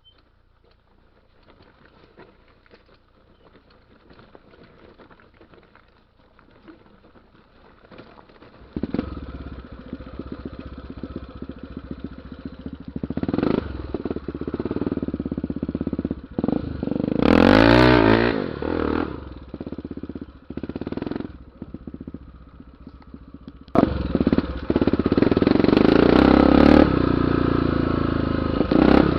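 Honda XR 250 Tornado trail motorcycle's single-cylinder four-stroke engine under way. It is faint at first, then comes in loud about a third of the way in and revs up hard and falls off several times. It drops back briefly, then pulls hard again for the last few seconds.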